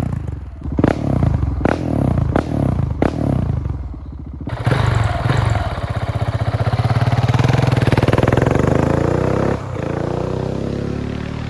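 Husqvarna 701's single-cylinder engine given about four quick throttle blips, then held in a long rev that rises in pitch and drops off sharply near the end.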